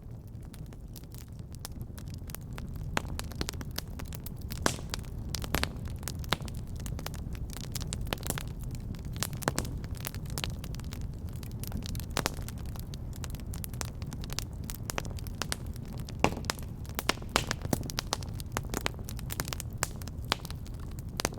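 Fireplace fire crackling, with irregular sharp pops over a low, steady rumble.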